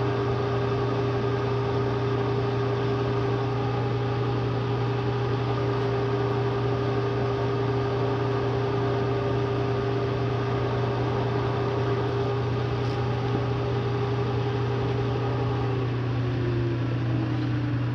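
Bridgeport milling machine running with a steady electric motor hum while drilling steel. One tone in the hum falls in pitch near the end.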